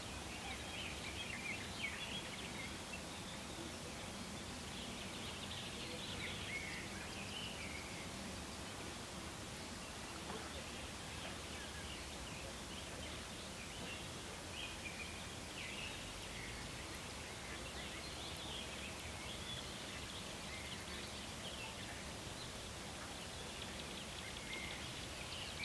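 Summer riverside ambience: birds chirping and singing on and off, over a low steady hiss.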